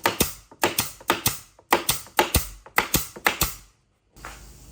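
A quick, uneven series of sharp knocks, about a dozen, as of a tool striking wood, cutting off suddenly near the end.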